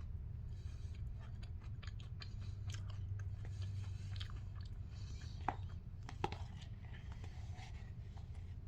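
A person chewing a mouthful of crisp rice cereal in milk: soft crunching with many small clicks, two sharper clicks a little past the middle. A steady low hum runs underneath.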